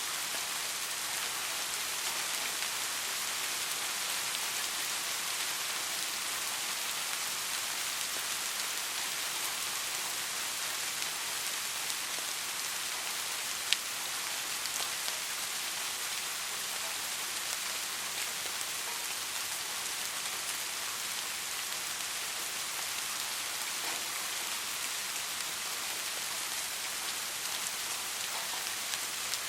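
Steady soft rain: an even hiss of falling rain with fine patter of drops, and one sharper drop click about halfway through.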